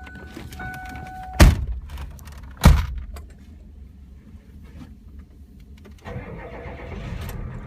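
A steady chime cuts off with a loud thump about a second and a half in, and a second thump follows a second later. About six seconds in, the 1993 Ford E-350's 7.3-litre turbo diesel fires up and settles into a steady low idle.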